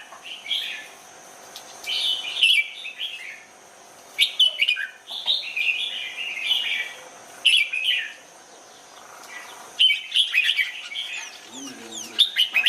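Red-whiskered bulbul singing: short bursts of quick chirping phrases, about six of them, with pauses of about a second between.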